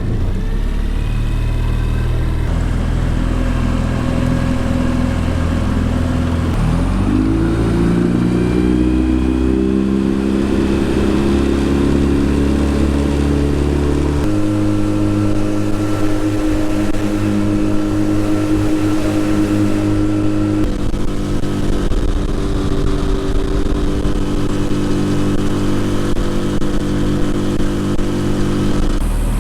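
Yamaha 9.9 outboard motor on a small boat running under way. It throttles up with a rising pitch about seven seconds in, then runs steadily at speed, its pitch shifting abruptly twice.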